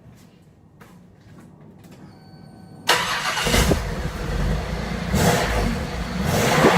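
Holden VP Commodore engine starting with a sudden burst about three seconds in, then running and being revved, rising and falling in loudness. A brief beep comes just before it starts.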